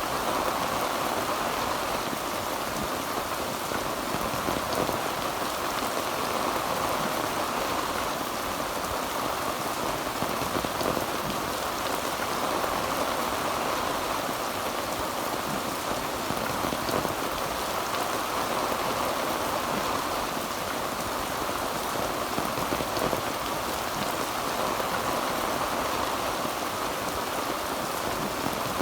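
Heavy rain drumming steadily on a tin roof, an even, unbroken downpour with no thunder.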